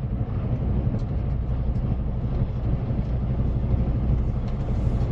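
Semi-truck's diesel engine running steadily, a deep even drone.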